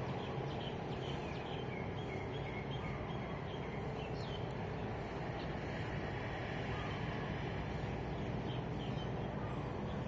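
Birds chirping, a quick series of short calls several times a second, over a steady low hum of distant road traffic. The chirping thins out midway and picks up again near the end.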